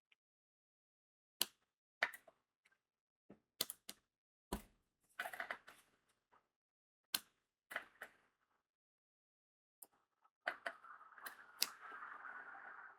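Sharp, separate clicks of crystal diamond-painting beads being pressed onto the sticky canvas with a drill pen, a few at a time, then about ten seconds in a dense, continuous rattle of many small beads moving together in the tray.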